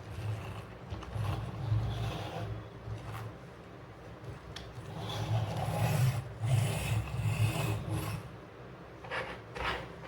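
Toy vehicles rolled and scraped across a surface, rubbing and rumbling in two bouts, with a couple of short clicks near the end.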